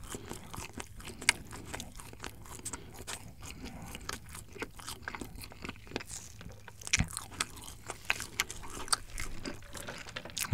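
Close-miked chewing of a mouthful of hamburger: a steady scatter of small, soft, wet mouth clicks and smacks.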